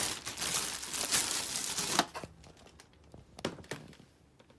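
Packaging crinkling and rustling as it is handled for about two seconds, then a few light clicks and knocks.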